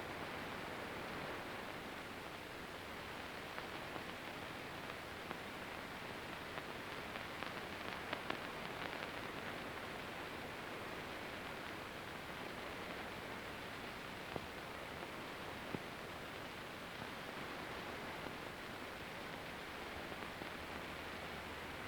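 Steady hiss with scattered irregular clicks and crackles, most between about 7 and 9 seconds in: surface noise of an old film soundtrack.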